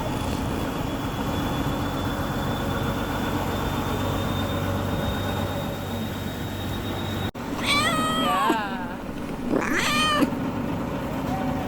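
A steady mechanical hum with a thin high whine, cut off abruptly about seven seconds in, followed by two drawn-out, wavering animal cries about a second and a half apart.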